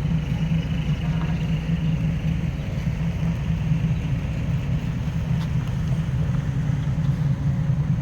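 Diesel truck engine running steadily at even revs, a constant low hum with no change in speed.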